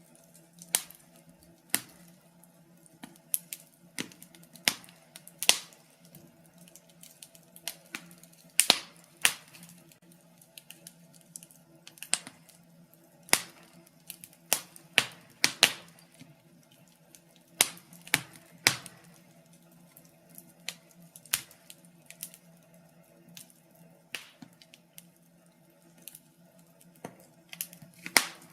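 Wood fire burning in a fireplace: irregular sharp crackles and pops, about one a second, some louder than others, over a faint steady low hum.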